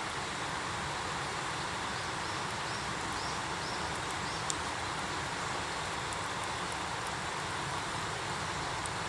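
Wood campfire burning with a steady hiss and occasional sharp pops, about halfway through and again at the end. A short run of faint high chirps sounds about two to four seconds in.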